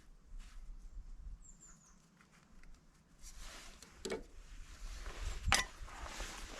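Faint rustling handling noises with two sharp clicks, one about four seconds in and a louder one about five and a half seconds in; no motor is heard running.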